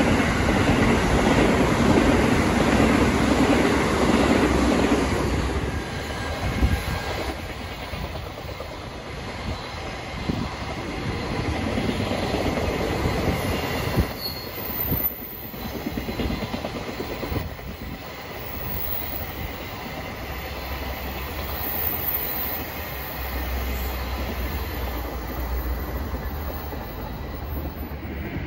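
A silver electric commuter train running past, loudest over the first five seconds. A long freight train of container flatcars then keeps up a steadier rumble, with scattered clacks of the wheels over the rails.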